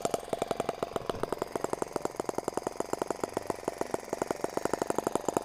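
Miniature water-cooled model engine running on petrol at a steady speed, firing in rapid, even beats.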